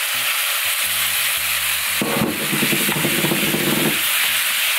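Gochujang-marinated pork with onion and scallion sizzling steadily in a hot oiled frying pan as it is stirred with chopsticks.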